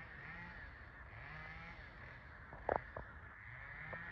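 A large flock of birds calling overhead, many overlapping distant calls, with two short, louder calls close together about two-thirds of the way through.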